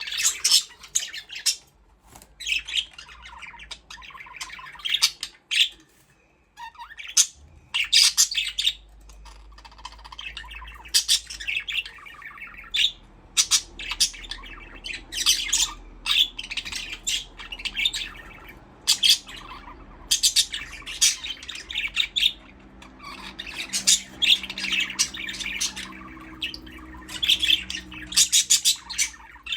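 Several budgerigars chirping and chattering, short rapid calls coming in quick bursts with brief pauses between.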